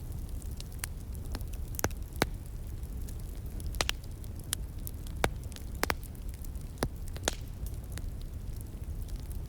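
Wood fire crackling: irregular sharp pops and snaps, about a dozen, over a steady low rumble.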